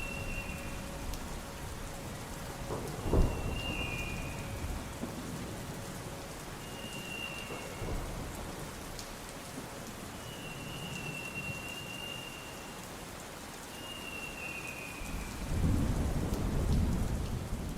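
Steady rain of a thunderstorm recording, with a sharp thunder crack about three seconds in and a low rumble of thunder building near the end. A faint high chirp recurs every few seconds over the rain.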